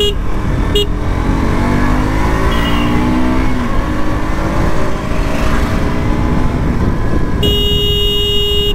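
KTM RC 125's single-cylinder engine rising in pitch as it accelerates, with heavy wind noise on the microphone. A horn gives two short toots at the start and one long blast of about a second near the end.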